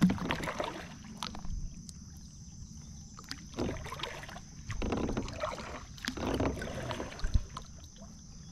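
Kayak paddle strokes dipping and pulling through the water, four splashy swishes a second or so apart, with a steady high-pitched hum behind them.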